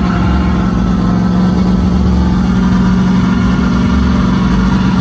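Truck engine running loud and steady, holding one even pitch.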